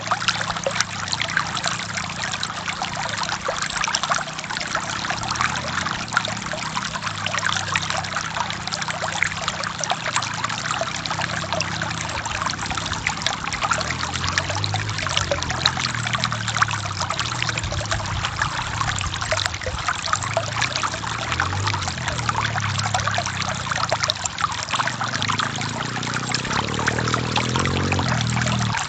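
River water flowing steadily, a constant rush with dense bubbling and splashing.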